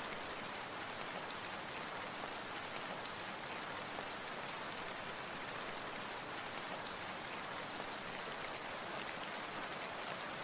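Steady rain falling, an even hiss of many small drops that neither builds nor fades.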